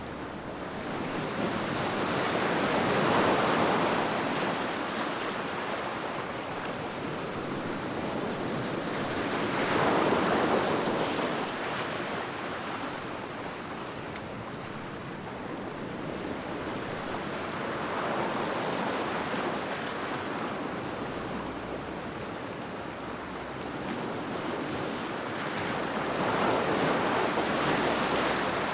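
Sea waves breaking and washing in, each one swelling and fading, about every seven to eight seconds; four surges in all.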